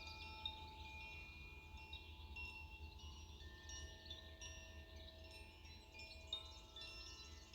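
Wind chimes ringing softly: many overlapping tones at different pitches, struck at random moments and each ringing on.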